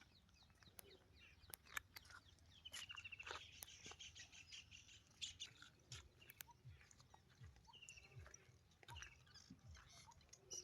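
Faint birds chirping, with a rapid trill twice, over a quiet background with scattered small clicks.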